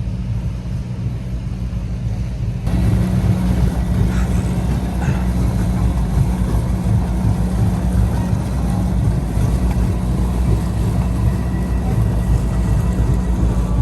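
Steady low drone of a tour boat's engine under a haze of water and wind noise, which gets suddenly louder about three seconds in.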